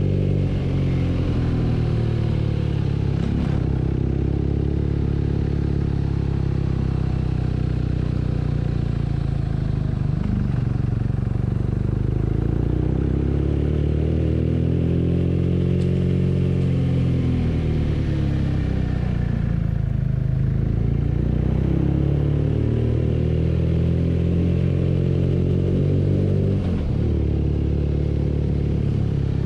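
BMW R nineT's 1170 cc boxer-twin engine running under way, its pitch rising and falling several times as the throttle opens and closes, with a few sudden drops in pitch.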